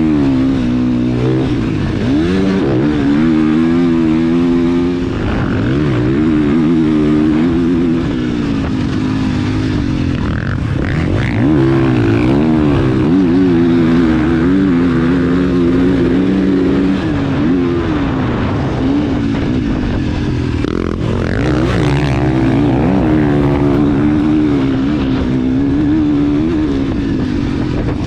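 Motocross dirt bike engine revving hard, its pitch repeatedly rising and falling as the rider accelerates, shifts and backs off.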